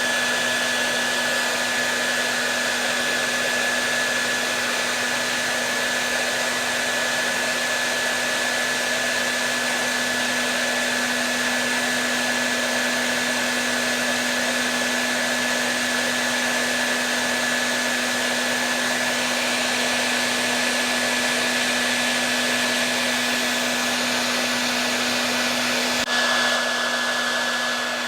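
Hair dryer running continuously: an even whooshing airflow with a steady low hum and a thin high whine. Near the end there is a brief click and the sound shifts slightly.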